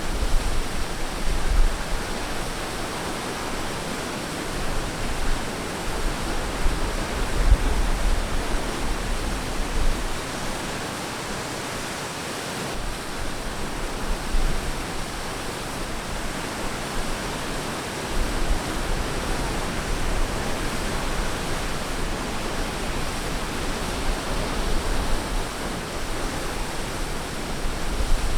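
Ocean surf on a beach: a steady wash of breaking waves, with a low rumble that comes and goes underneath.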